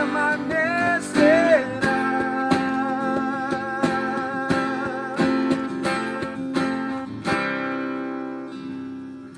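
Acoustic guitar strumming under a worship song, with a voice singing the closing word 'permanecerá' and holding it. The strumming slows and the chord fades out near the end as the song finishes.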